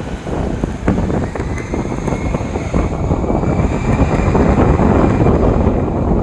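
Airliner engines running at takeoff power: a loud, steady rushing noise with a faint whine that rises slightly in pitch.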